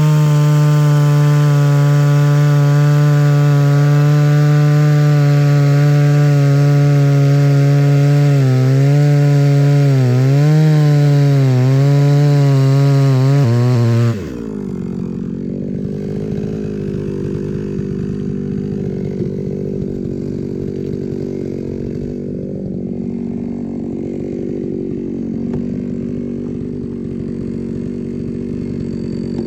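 Two-stroke chainsaw cutting firewood logs at full throttle, its pitch dipping briefly a few times as the chain bites, then dropping suddenly to a steady idle about halfway through.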